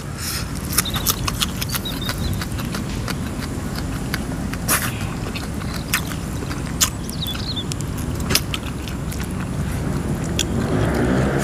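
Close-miked chewing of food, with many short, sharp crunches and mouth clicks over a steady low rumble. Near the end a low hum with several tones rises in level.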